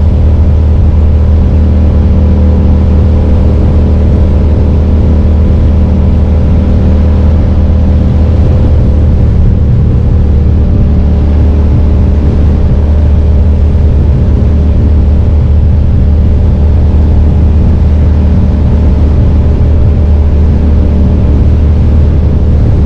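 2005 Suzuki SV650S's V-twin engine running steadily under way, picked up close by a camera on the left mirror, with wind and road noise over it.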